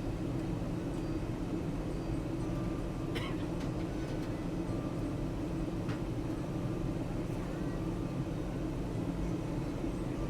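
Airliner cabin noise during descent: the steady drone of the jet engines and airflow, with a low hum, and two faint clicks about three and six seconds in.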